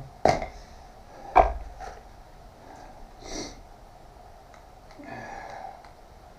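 Two sharp knocks about a second apart, struck on the freshly welded workpiece to check that it is solid, followed by a short hiss and quieter handling noise.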